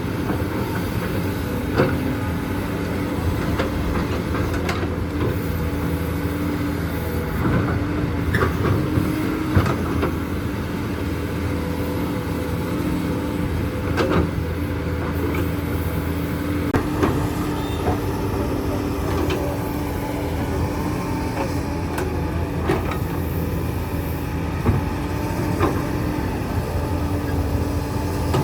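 Hydraulic excavator's diesel engine running steadily, with irregular clanks and knocks every few seconds as the bucket digs into limestone rock.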